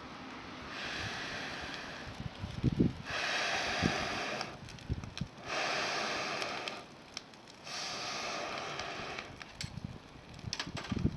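Air blown in long, even rushes onto a wood fire, four times, each lasting about a second and a half, with a few low knocks and crackles in between.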